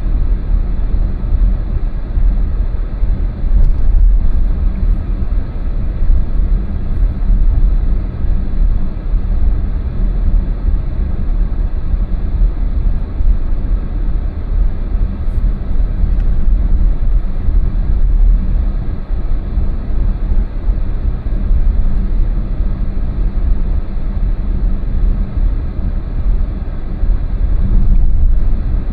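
Steady low rumble of a car being driven, its engine and tyre noise holding even throughout.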